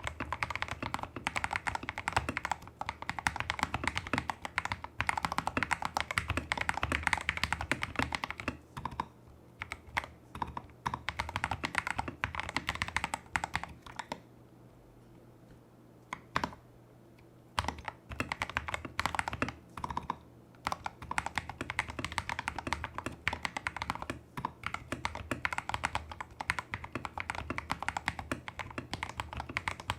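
Typing on a Tester68 mechanical keyboard with lubed Holy Panda clone tactile switches, a taped PCB, modded stabilisers and XDA-profile keycaps. The keystrokes come quickly in bursts, with a pause of about three seconds about halfway through.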